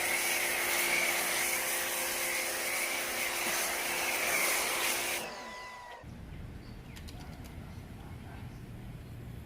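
A small electric motor tool runs with a loud rushing hiss and a high whine, is switched off about five seconds in and winds down. A quieter low steady rumble follows.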